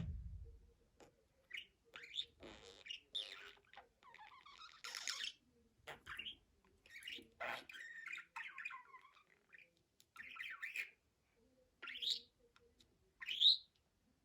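Budgerigar chattering, with short squawks and chirps coming in irregular bursts. A brief low thump sounds right at the start, and the loudest call is a sharp rising chirp near the end.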